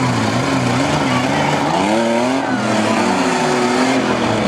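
Demolition derby pickup truck and minivan engines revving as they accelerate at each other, with a sharp rise in revs about two seconds in.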